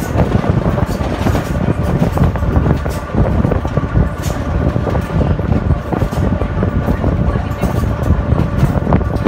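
Sóller narrow-gauge train heard from aboard a carriage while running: a loud, dense clatter of wheels on the rails and rattling carriage, with a faint steady whine running through it.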